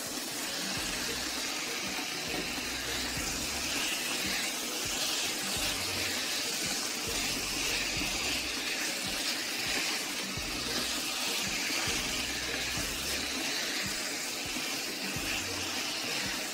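Raw shell-on prawns frying in hot oil and sambal spice paste in a wok, sizzling steadily as they are stirred with a wooden spatula.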